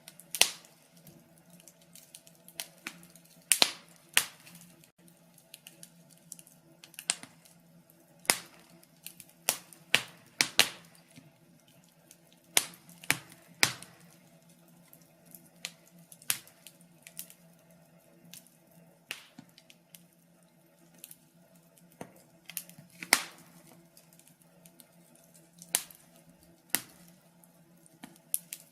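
Wood fire crackling in a fireplace: irregular sharp pops and snaps, roughly one to three a second, with a few much louder snaps, over a faint steady low hum.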